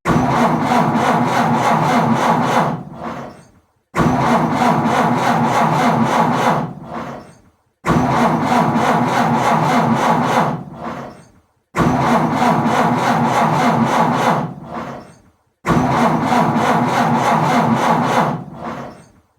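A car's starter motor cranks an engine that does not catch, in five attempts about four seconds apart. Each attempt cranks steadily with a rapid chugging for a couple of seconds, then winds down and stops before the next begins.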